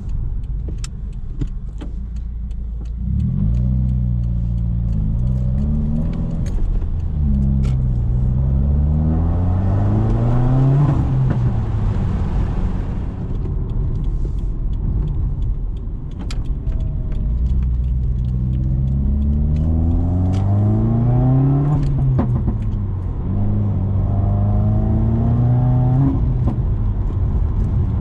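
Subaru WRX's turbocharged flat-four with muffler and resonator deleted, accelerating through the gears: the exhaust note climbs in pitch over several pulls and drops at each shift, with a few sharp pops.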